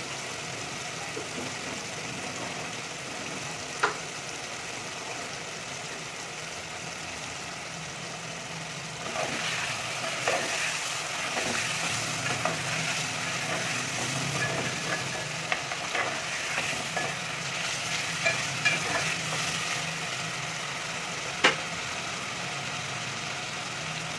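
Chicken pieces frying in an onion-tomato masala in a metal pot, with a steady sizzle. From about nine seconds in, a metal spoon stirs and scrapes through the pot, and the spoon knocks sharply on the pot twice.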